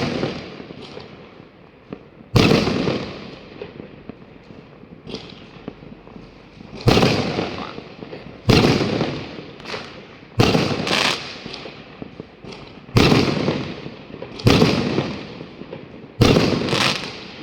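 Fireworks exploding: about nine loud bangs at irregular intervals, one every one to two seconds, each dying away slowly over a second or so.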